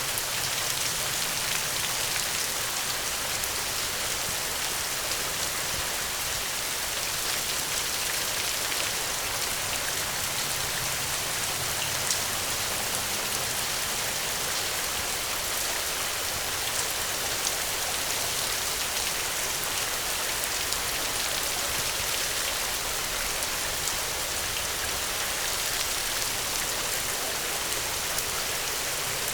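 Steady rainfall, an even hiss of many drops with faint individual drop ticks, unchanging throughout.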